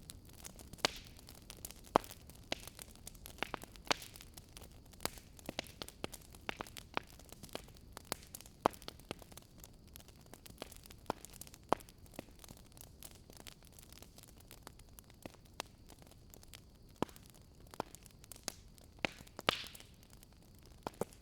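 Wood fire in a fireplace crackling: irregular sharp pops and snaps over a low, steady hiss of burning, with a slightly longer snap near the end.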